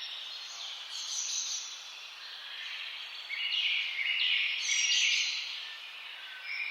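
Several songbirds singing and chirping at once, with a denser, louder burst of calls about halfway through, over a faint steady hiss.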